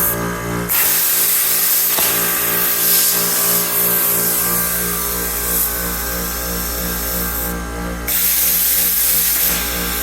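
Plasma cutter torch on an ArcDroid CNC table hissing as it cuts steel, over the steady hum of the Lincoln Tomahawk 375's onboard air compressor. The hiss cuts out twice, once at the very start and once about three-quarters through, as the arc stops between cuts in the hole pattern.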